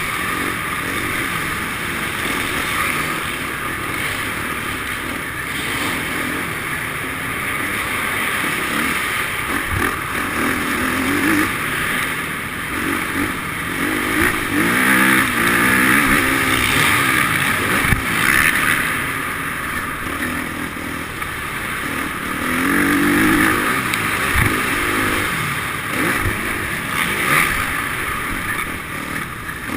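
Motocross bike engine revving up and down over and over as it is ridden around a track, the pitch rising and falling every few seconds.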